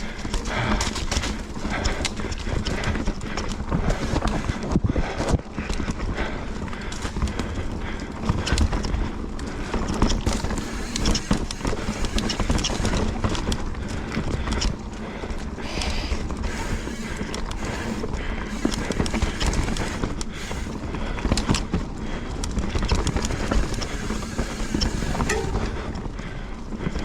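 Specialized Enduro mountain bike riding down a wet, rough trail: a constant rattle from the bike, broken by many sharp knocks as the wheels go over roots and rocks, with tyre noise on muddy ground.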